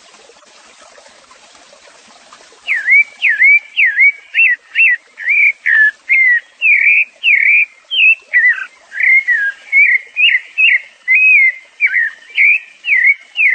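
A songbird singing a long, loud run of short whistled notes, each a quick sweep in pitch, about three a second. It starts nearly three seconds in, after a faint hiss.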